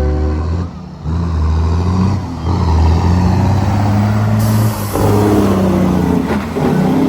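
Big diesel truck engines revving loudly as trucks pass, the pitch rising and falling over and over, with a short drop about a second in.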